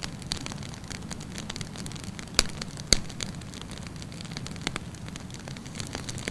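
Wood campfire burning with a steady low rumble and frequent small crackles, and two loud pops about half a second apart near the middle.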